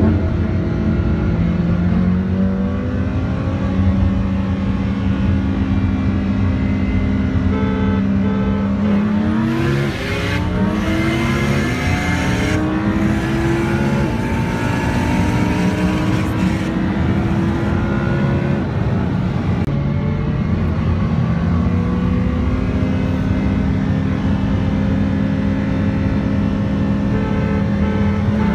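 Car engines at full throttle side by side in a roll race between a Lamborghini Huracán and a Mitsubishi Lancer Evolution IX, with a constant rush of wind and road noise. The engine pitch climbs slowly, drops sharply at a gear change about a third of the way through, climbs again, and drops again at another shift near the end.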